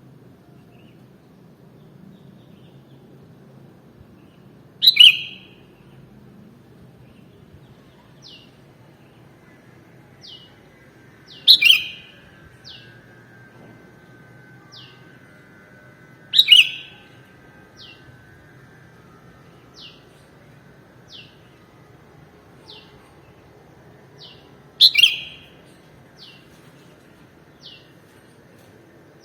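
Sooty-headed bulbul (kutilang) calling: four loud, short calls several seconds apart, with faint, short, high falling notes about once a second between them.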